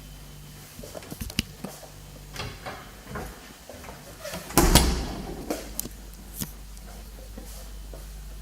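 A string of clicks and knocks, with one loud thump about halfway through, over a steady low hum.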